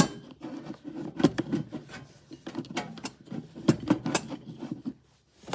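Irregular clicks, knocks and rubbing from a small part being handled and dried out by hand, which stop near the end.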